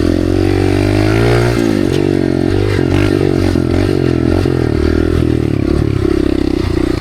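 Dirt bike engine running loud as it is ridden, its pitch rising and falling over and over as the throttle is opened and closed.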